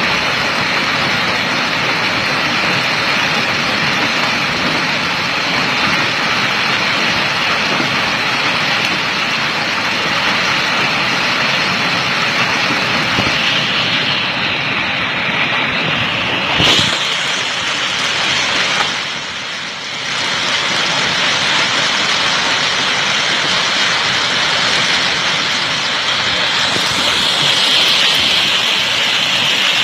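Heavy hail and rain coming down hard, a dense steady hiss and clatter with countless small impacts, and one sharper knock about 17 seconds in.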